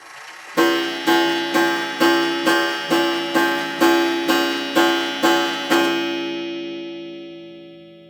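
Clock chime striking twelve times on the same note, about two strikes a second, then ringing away slowly after the last strike.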